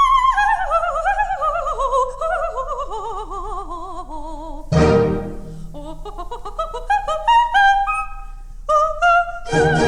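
Coloratura soprano singing an opera cadenza with orchestra: a long run of trilled notes stepping downward, a short orchestral chord about halfway, then quick detached notes climbing to a high note, with the orchestra coming back in near the end.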